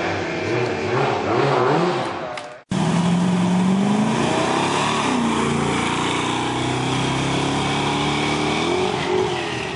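Competition car engine revved in quick throttle blips at the start line, then cut off abruptly about two and a half seconds in. After the cut, a car launches, its engine note climbing as it pulls away and rising again near the end.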